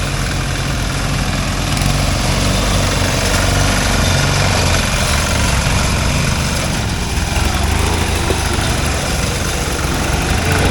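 Riding lawn mower's small engine running steadily after firing up, a little louder over the first couple of seconds.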